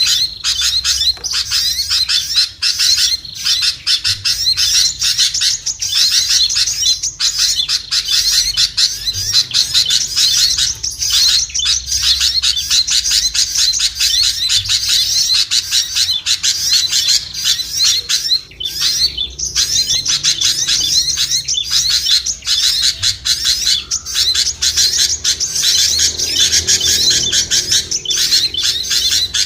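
Small songbirds chattering in dense, rapid, high-pitched chirps with hardly a pause: a lure call for attracting small birds.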